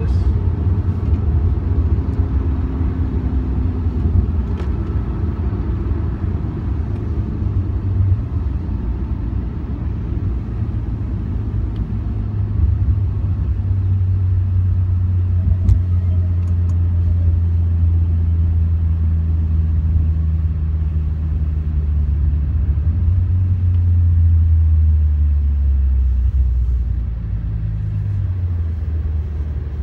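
Cabin sound of a 2017 Porsche 911 Turbo S's twin-turbo 3.8-litre flat-six running steadily as a low drone. Near the end the drone drops in pitch as the car slows.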